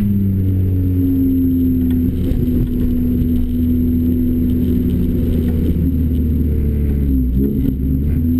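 Renault Clio RS four-cylinder engine running hard through a Bastuck aftermarket exhaust, its pitch holding fairly steady, with a brief dip about seven seconds in.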